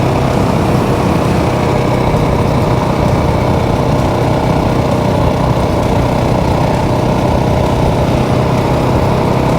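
Motorcycle engine running at a steady speed under way, its pitch holding even, with a hiss of noise over it.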